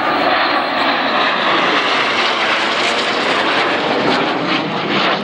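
Loud, steady jet noise from BAE Hawk T1 display jets flying overhead.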